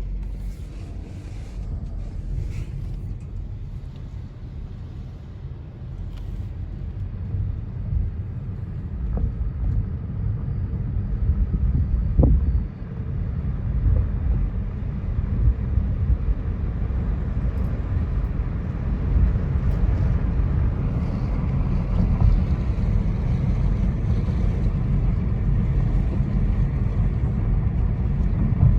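Car driving, heard from inside: a steady low rumble of engine and road noise that grows louder about a third of the way in.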